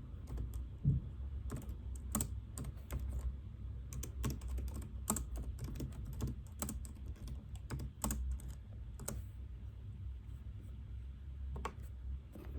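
Typing on a computer keyboard: irregular runs of keystrokes that stop about nine seconds in, with a couple more keys near the end, over a low steady hum.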